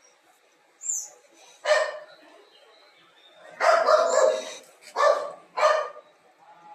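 A dog barking several times: short barks with one longer, drawn-out bark in the middle.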